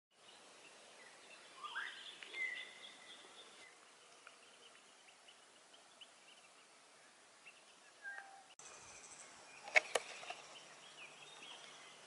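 Faint outdoor ambience with scattered bird chirps and calls, one of them a short rising call, over a light hiss. Near the end come two sharp clicks in quick succession.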